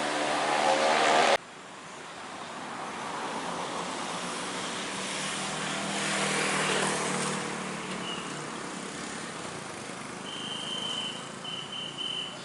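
Diesel-hauled passenger train: a loud engine drone with a pitched hum that cuts off abruptly about a second and a half in, then the rush of the train passing, swelling and fading, with a low steady hum. A high, broken chirping tone comes in near the end.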